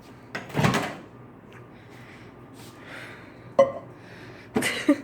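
A few brief handling knocks and a sharp click, over a faint steady room hum.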